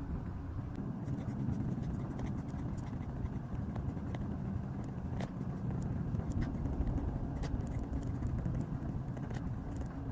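Small clicks and scrapes of paper and stationery being handled while making a journal spread, over a steady low rumble like road traffic.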